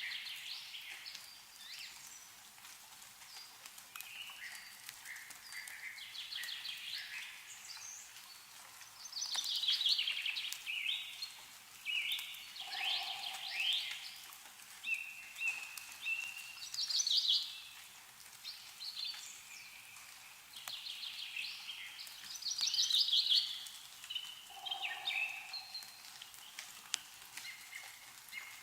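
Songbirds singing repeated trilled phrases over and over, with scattered light drips of meltwater falling from snowy trees. A lower, short sound comes twice, about halfway through and near the end.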